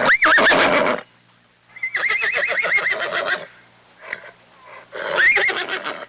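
A horse whinnying three times: a short call at the start, a longer one about two seconds in with a fast quavering pitch, and another short call about five seconds in.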